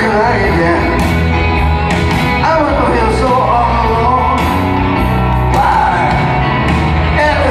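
Live rock band playing, with a man singing over it.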